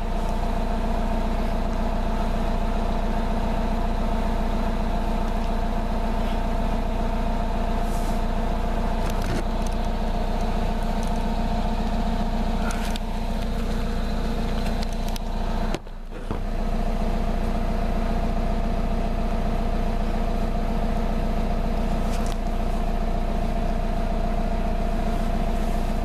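Car engine idling at the exhaust tailpipe, a steady low rumble with a constant hum, while the engine is still cold and warming up. The sound briefly drops out about two-thirds of the way through.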